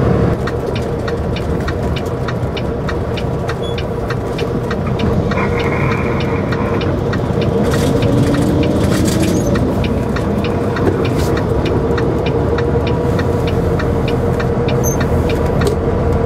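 Semi-truck driving at road speed, heard from inside the cab: a steady engine and road rumble with a constant hum and a regular row of light ticks.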